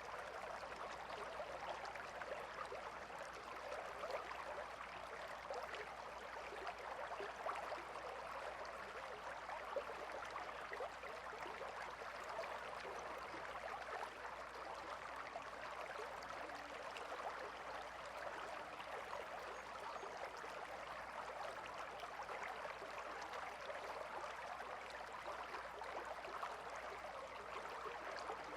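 Gently flowing river water, a steady babble and trickle.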